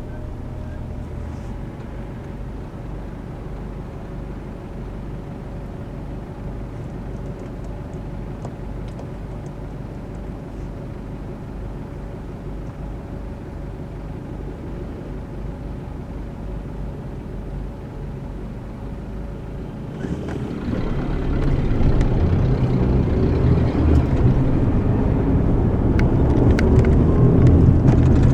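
Car cabin noise while driving: a steady low engine and road hum with a faint steady tone, which grows clearly louder about twenty seconds in.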